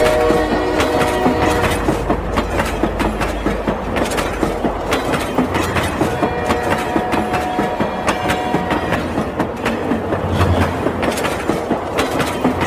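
Toy train running, with a steady rhythmic clickety-clack of wheels. Horn-like steady tones are held for a second or two near the start and again from about six seconds in.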